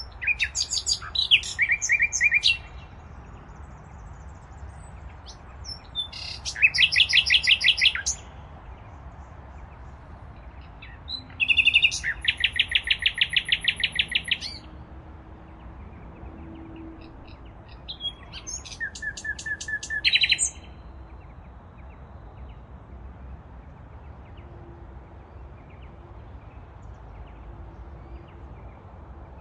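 A parrot calling in four bouts of fast, repeated chattering notes, each bout lasting two to three seconds with a few seconds' pause between them.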